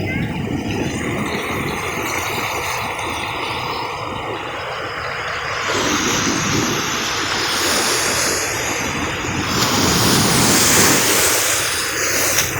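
Ocean surf breaking and washing onto a sand beach. The rush of water grows louder from about halfway through and is at its strongest, with a bright hiss, near the end, over a steady low rumble.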